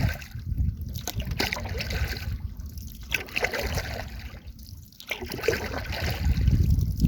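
Double-bladed paddle stroking a canoe along: water swishing and trickling off the blades, swelling and fading about every two seconds. A low rumble underneath is strongest near the end.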